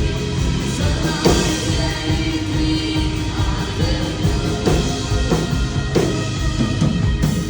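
Worship band playing an instrumental passage of a song, sustained chords with drum hits and no clear words.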